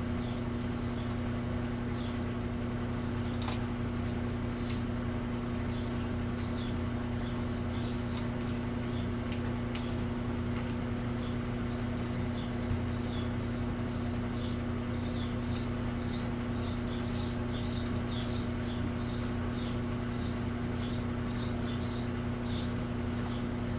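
Short high chirps repeating over a steady low hum, sparse at first, then coming about two or three a second through the second half.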